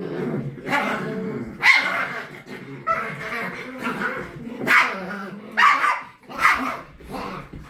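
A dog barking several times in short, sharp calls.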